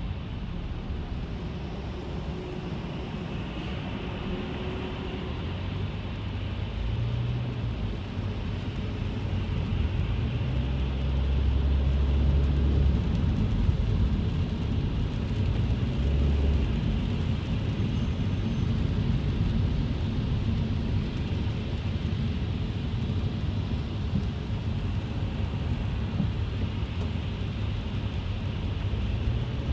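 Inside a car driving in the rain: a steady low rumble of engine and tyres on a wet road, with a hiss of rain on the car. The rumble swells louder about ten seconds in and eases off a little later.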